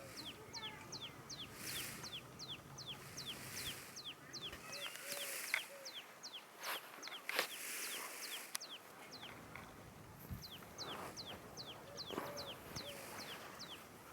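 Birds calling: a steady run of high notes, each sliding downward, about four a second, with a few lower clucking calls and occasional sharp clicks.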